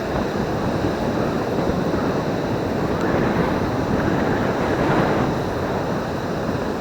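Steady rush of surf with wind buffeting the microphone, swelling and easing slightly.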